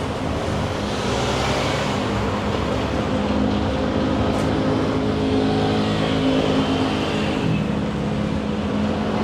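Engine and road noise of a Thai red songthaew pickup truck, heard from its open passenger bed as it drives, with a steady rush of wind and traffic. The engine hum shifts in pitch near the end as the truck changes speed.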